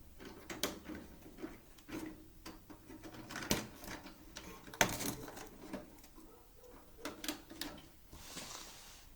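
A small bird scrabbling inside a cardboard travel box: irregular scratches and taps, with two louder knocks about three and a half and five seconds in and a brief rustle near the end.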